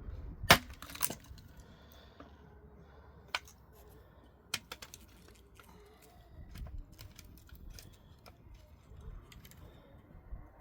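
Sharp knocks and clicks of hard objects being handled. The loudest knock comes about half a second in and another about a second in, followed by scattered lighter clicks and taps.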